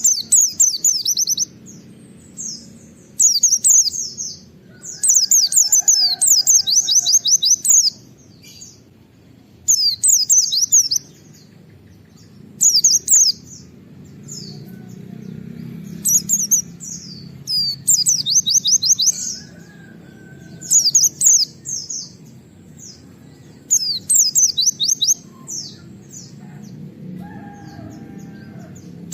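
A pleci (white-eye) singing its 'wit-wit' shooting song: about ten bursts of rapid, high chirps, each one to three seconds long, with short pauses between them, over a faint low steady hum.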